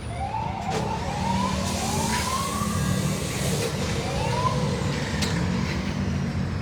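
An engine running with a steady low rumble and several rising whines, as of repeated revving, with a few short knocks among them.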